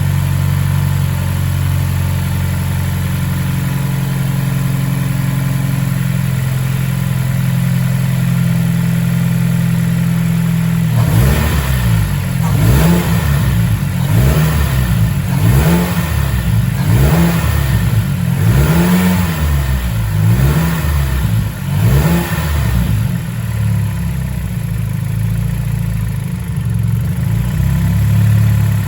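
Mazdaspeed Axela's 2.3-litre direct-injection turbocharged L3-VDT four-cylinder engine idling steadily, then revved in a series of about eight quick blips, each rising and falling in pitch, before settling back to idle.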